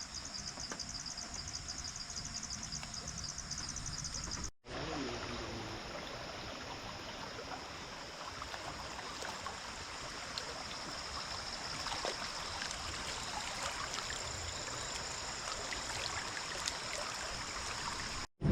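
Night rainforest ambience: insects chirping in a fast, even pulse, then after a sudden cut a steady high insect drone over the rush of running stream water, with scattered small clicks.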